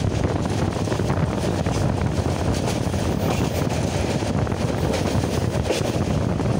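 Passenger train running along the track, a steady low rumble, with wind buffeting the microphone, heard from inside a carriage.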